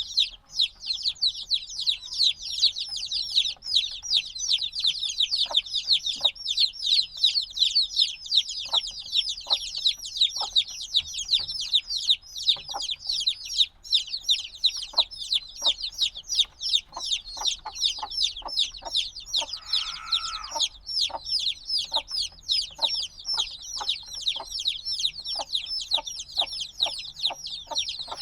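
A brood of chicks a few days old peeping continuously, many shrill downward-sliding peeps overlapping several times a second. Faint short ticks sound beneath them, and about twenty seconds in there is one lower, longer call.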